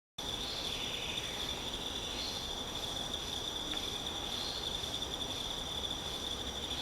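Steady, high-pitched insect chorus in forest, a continuous shrill drone that holds unbroken.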